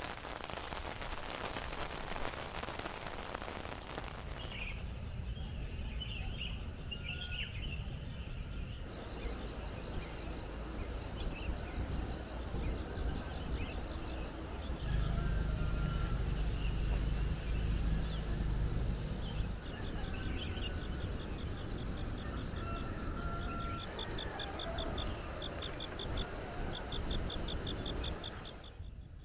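Steady rain for the first few seconds, then outdoor ambience of birds chirping and insects trilling, with a low rumble in the middle stretch and fast repeated insect-like ticking near the end.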